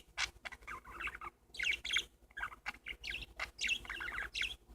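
Pet parakeets chirping and chattering in a run of short, quick chirps and warbles.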